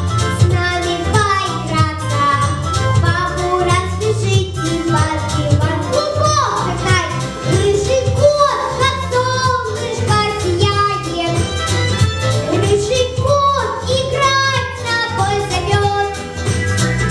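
A girl singing a solo song over a recorded backing track, the melody gliding and bending between held notes above a steady low accompaniment.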